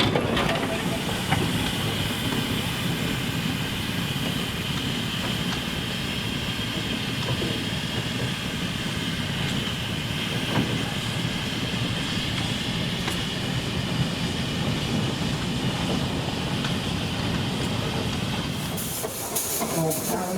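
Steam engine running with a steady hiss of steam over a low mechanical clatter.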